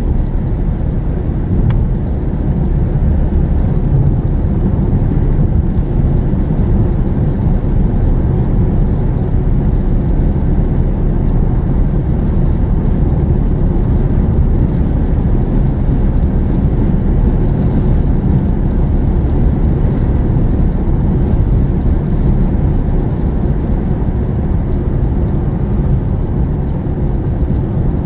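Steady low rumble of a car driving, heard inside the cabin: engine and tyre road noise that holds even throughout.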